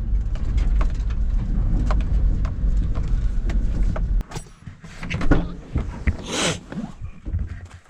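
An engine running steadily, cut off abruptly about four seconds in, followed by scattered clicks, knocks and a short swish.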